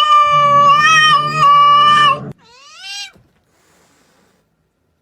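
A cat's long, loud yowl, held on one pitch with a slight waver, cuts off suddenly about two seconds in. A shorter cry that rises and falls follows.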